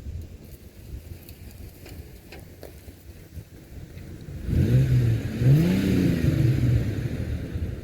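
A vehicle's engine and exhaust, faint at first, come up loud about four and a half seconds in. It revs, its pitch rising and then falling, and eases off near the end.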